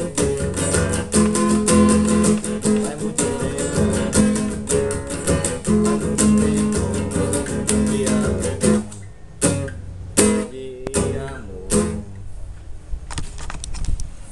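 Acoustic guitar strummed in a steady rhythm, breaking off about two-thirds of the way through into a few single final strums, then only faint light ticks.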